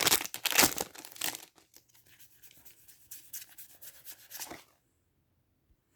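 Foil Pokémon booster pack wrapper crinkling and tearing as it is opened, in a dense crackle for about a second and a half. This thins to a few faint rustles of handling.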